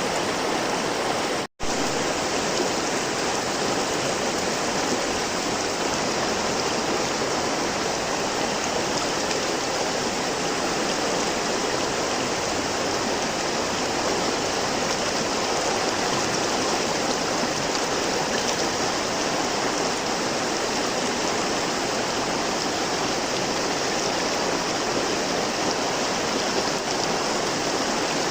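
River water flowing steadily, a constant rushing of running water over rocks. A split-second dropout to silence breaks it about a second and a half in.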